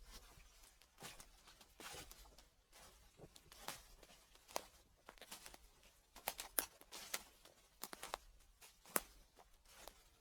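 Footsteps crunching through fallen leaves: a quiet, irregular run of crackles and rustles, with a few sharper snaps in the second half.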